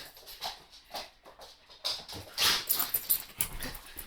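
Puppy playing, giving a few soft whimpers among light taps and scuffles.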